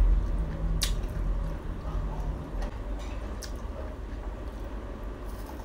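Close mouth sounds of chewing a crisp, sugar-glazed Khmer fried ring cake (nom kong), with two sharp crunchy clicks, about a second in and again about three and a half seconds in.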